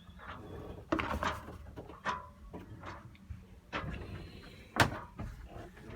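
A few scattered knocks and clicks in a small cabin, the loudest just before the end, over a low steady background.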